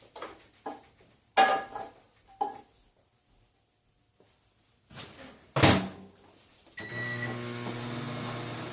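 Microwave oven being loaded and started: a few knocks and clicks, a loud clack of the door shutting, a short beep, then the microwave running with a steady hum.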